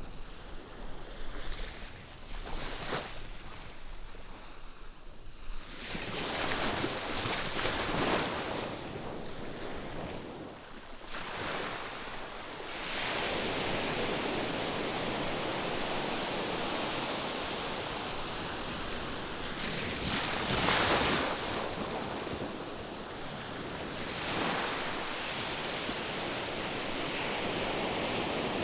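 Ocean surf from waves heard at a distance, a steady wash that swells and ebbs as each wave breaks and runs up. It is loudest about two-thirds of the way through.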